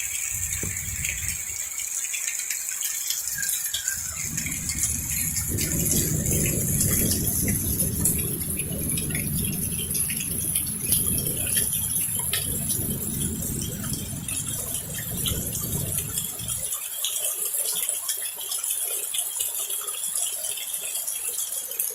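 Heavy thunderstorm rain pattering and hissing, with many small drop ticks close to the microphone. A deep low rumble swells in about three seconds in and dies away about four-fifths of the way through.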